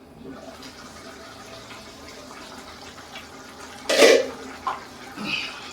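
Pot of black beans simmering, a low bubbling of liquid, with a short, louder noise about four seconds in.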